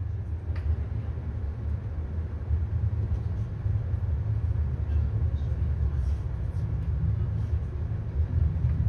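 Regional train running, heard from inside the carriage: a steady low rumble with a few faint clicks.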